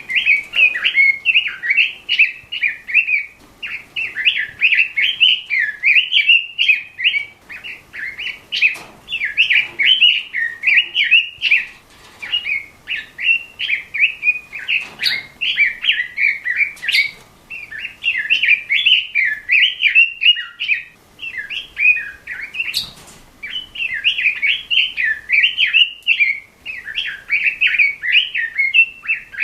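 Pekin robin (red-billed leiothrix) singing, a fast continuous warble of rippling phrases broken by brief pauses, with a few faint clicks in between.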